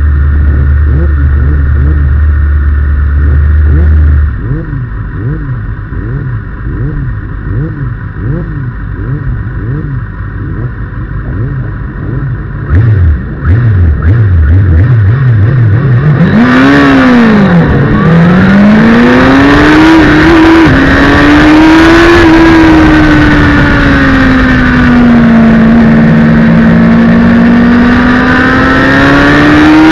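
Inline-four engine of a 2009 Kawasaki ZX-6R racing motorcycle, with other race bikes around it, on the start grid. After a steady low drone for about four seconds, the throttle is blipped over and over until about sixteen seconds in. Then the bike launches off the line: the revs climb steeply and drop at each upshift, and the engine settles into a high, sustained note with wind rushing past.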